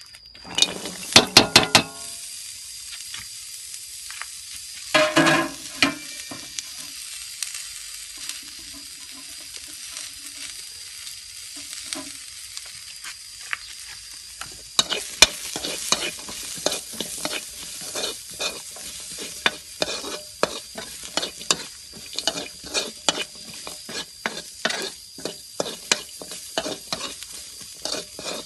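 Sliced shallots and garlic going into hot oil in a steel wok, with a burst of loud sizzling and clatter at the start and again a few seconds later, then a steady sizzle. From about halfway, a metal ladle scrapes and taps the wok in quick, regular stirring strokes over the frying.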